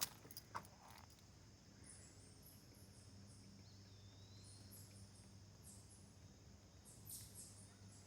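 Faint woodland ambience: a steady high insect trill, with short, very high chirps coming in irregular groups and a faint gliding whistle about four seconds in. A couple of soft crackles, likely steps, at the very start.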